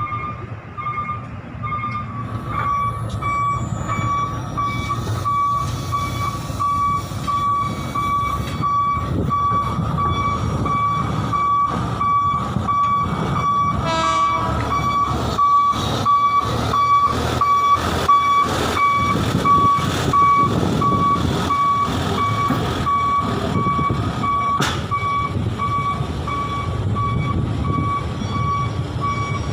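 A heavy vehicle running on railway track, its engine rumbling under a string of short, high electronic warning beeps that starts a couple of seconds in and keeps on, with repeated knocks and clacks throughout.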